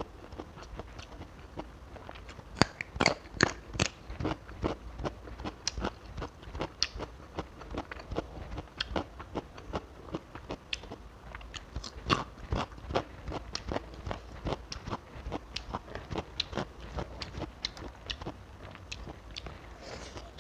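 Crisp, crunchy bites and chewing of raw long bean, picked up close by a clip-on microphone, with the loudest crunches a few seconds in and again around the middle.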